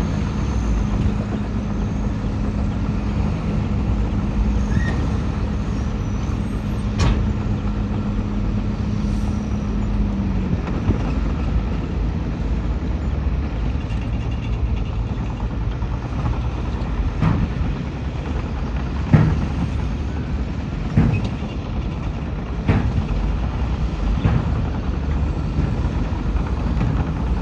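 Heavy diesel earthmoving machinery running steadily. A held engine tone drops away about ten seconds in, and several sharp knocks come at intervals through the second half.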